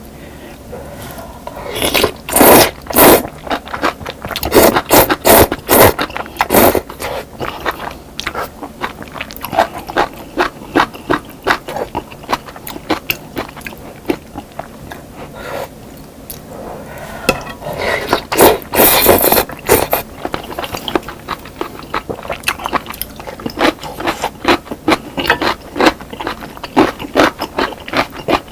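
Close-miked eating of crispy fried chicken wings: crunchy bites and chewing. Loud crunching comes in three spells, about two seconds in, around five to seven seconds, and again around eighteen seconds, with softer chewing clicks and smacks in between.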